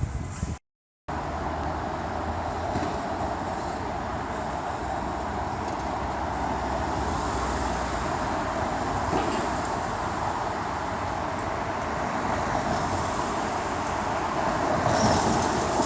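Steady noise of a motor vehicle running in the street, cut by a brief dropout about half a second in and rising a little near the end.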